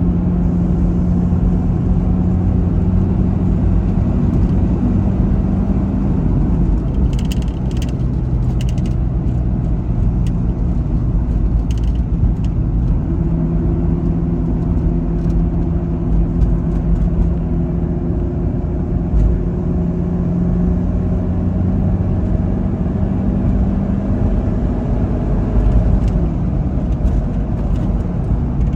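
Mitsubishi Delica Star Wagon's turbo-diesel engine running while driving, a steady engine drone over road rumble. The engine note drops about seven seconds in, picks up again around thirteen seconds, and falls again near the end. A few light clicks come between about seven and twelve seconds.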